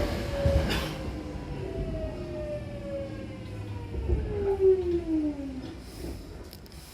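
Hankyu electric commuter train's traction motors whining, the pitch sliding steadily down as the train brakes to a stop at a station. A few faint clicks come near the end.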